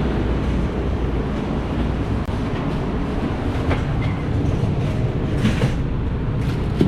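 Automated airport people-mover tram running along its guideway: a steady low rumble with a few short clicks and rattles.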